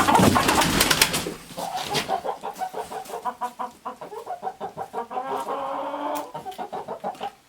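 Backyard hens clucking, many short calls a few times a second. A loud rustling clatter fills the first second and a half.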